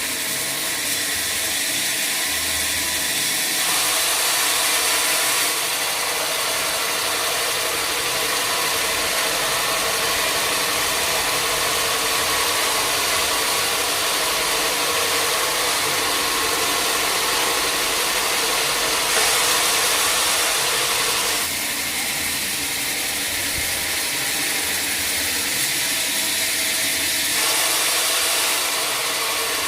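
Sawmill machinery running continuously with a loud, even mechanical noise whose tone shifts a few times.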